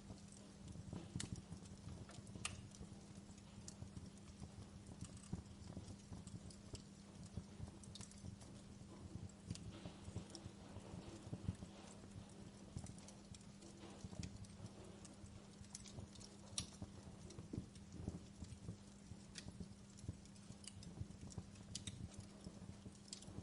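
Wood fire crackling in a fireplace: irregular sharp pops and snaps, some louder than others, over a steady low hum.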